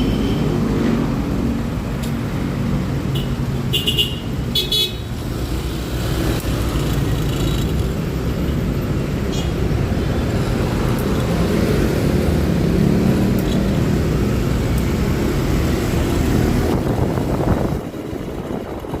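Scooter riding in city traffic: the engine runs steadily under road and wind noise, and a vehicle horn gives a few short toots about three to five seconds in.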